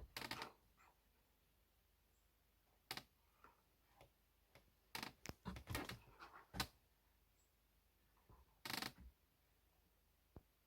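Scattered short knocks, clicks and brief scrapes, about a dozen, bunched near the start, a little past the middle and near the end, with near silence between.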